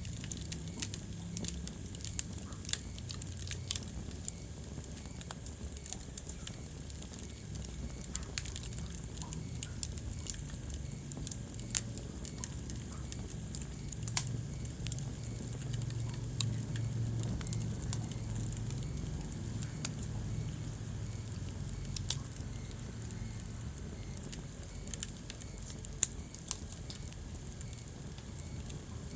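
Wood fire burning in a fireplace: a steady low rumble of flames with scattered sharp crackles and pops, a few of them louder snaps.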